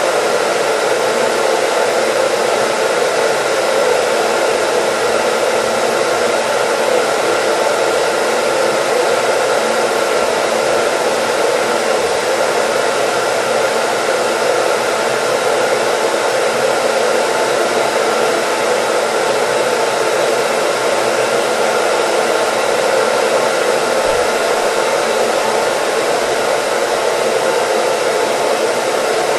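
Hair dryer running steadily, a dense even rush of air and motor with a faint steady whine in it and no change in level.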